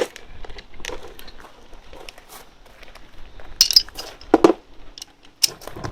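Metal clinks and taps of a socket wrench being handled and fitted onto a bolt on a lawn mower's engine cover, a few louder knocks about three and a half to four and a half seconds in.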